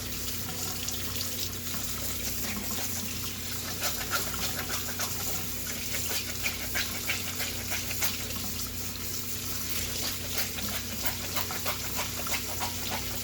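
Hot water running from a kitchen tap into a sink, splashing irregularly as foam air filters are rinsed under it to flush out the last soap.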